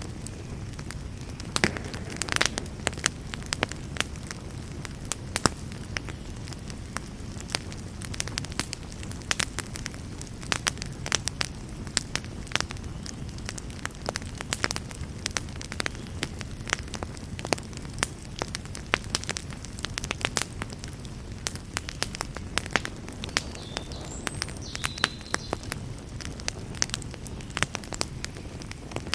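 Campfire burning, with frequent sharp crackles and pops over a steady low rush of flame.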